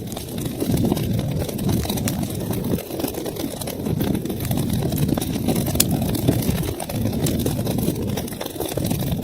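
Wood fire burning in a fireplace: a steady low rumble of flames with scattered sharp crackles and pops, one louder pop a little after halfway.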